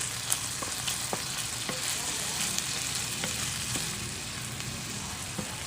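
Corned beef and diced beetroot sizzling in a frying pan, with a steady hiss and scattered clicks and knocks of a utensil stirring against the pan.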